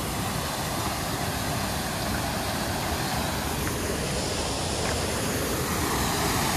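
Water rushing over a small waterfall on a city canal: a steady, even rushing noise, growing slightly louder toward the end.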